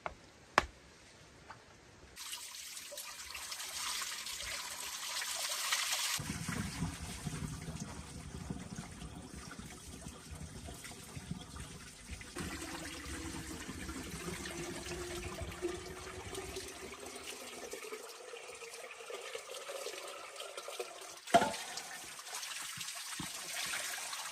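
Water running and splashing, with a faint tone slowly rising in pitch about halfway through; a sharp knock near the start and another near the end.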